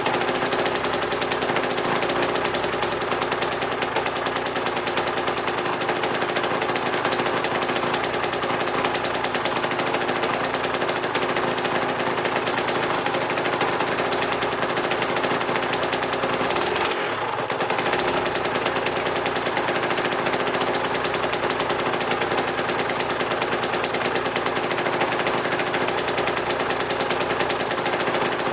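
Aprilia RS 125's Rotax 122 two-stroke single-cylinder engine running steadily with a fast, rattling beat, warming up just after an engine rebuild. About 17 seconds in, the engine note briefly dips and then recovers.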